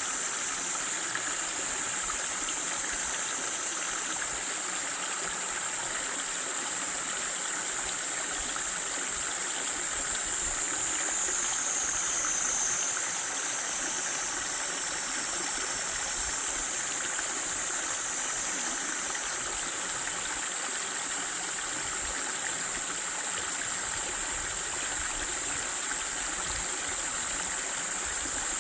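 Steady rush of a mountain stream and small waterfall, water falling and running over rocks with an even hiss.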